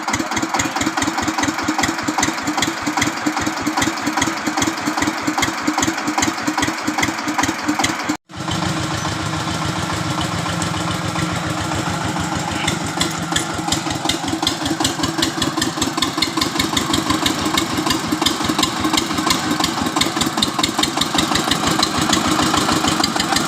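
Engine running with a slow, even chugging for about eight seconds. After a sudden break it runs on more steadily.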